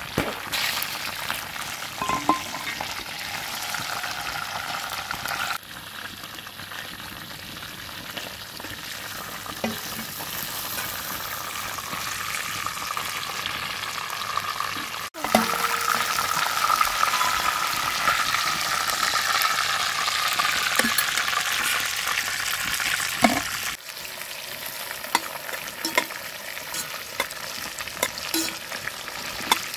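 Chicken pieces frying in hot oil in a pan, a steady sizzle with clicks and scrapes of a metal spatula and fork turning them against the pan. The sizzle steps suddenly louder or quieter a few times.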